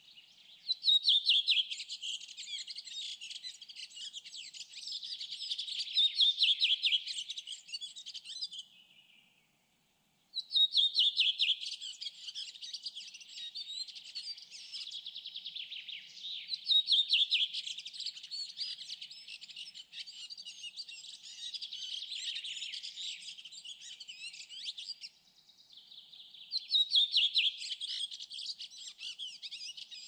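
A songbird singing long phrases of rapid high notes, almost without pause. The song breaks off for about a second around ten seconds in, then resumes.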